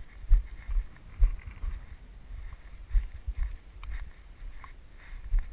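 Irregular low thumps and rustling of a camera carried on a moving airsoft player, with wind on the microphone.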